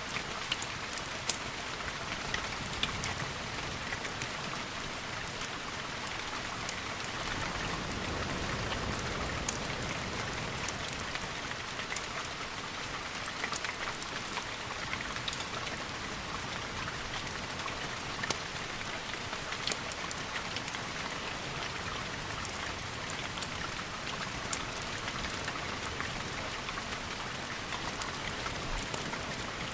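Steady rain falling, with scattered sharp ticks and a slight low swell about eight to ten seconds in.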